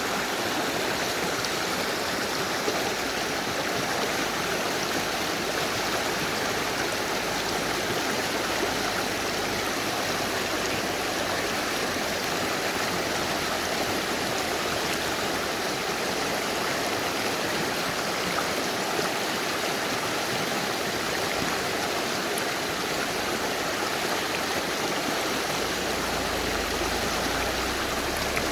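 Mountain river rushing over rocks: a steady, dense roar of flowing water with no let-up.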